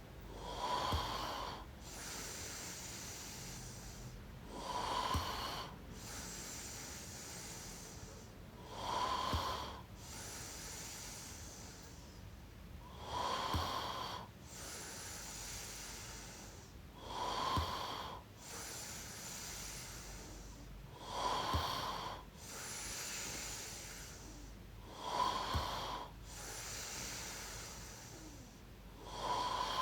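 A person snoring softly and steadily: a short snore on each inhale about every four seconds, about eight in all, with a quiet breathy exhale between them.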